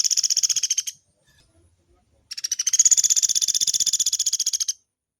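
Woodpecker (pelatuk beras) giving long, fast rattling calls of many rapid high notes. One call ends about a second in and another lasts about two and a half seconds.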